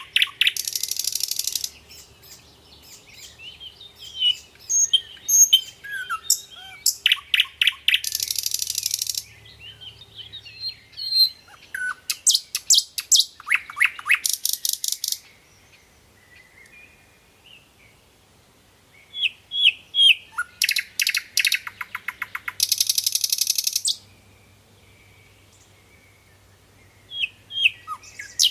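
A songbird singing in phrases of quick chirps, short whistled glides and harsh buzzy trills, with gaps of a few seconds between phrases.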